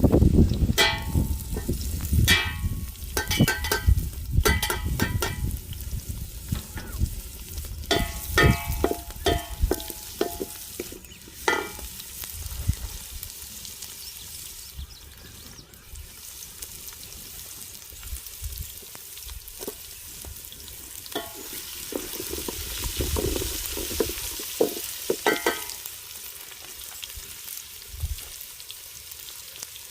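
Food sizzling as it fries in hot oil in a metal pot. A metal utensil stirs it, clinking and scraping against the pot in many quick strokes during the first dozen seconds and a few more near the end.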